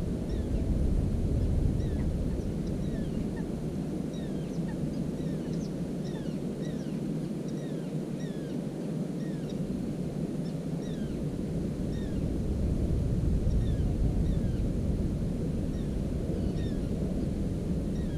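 A small bird giving short chirps that slide down in pitch, about two a second, over a steady low rumble that is the loudest sound.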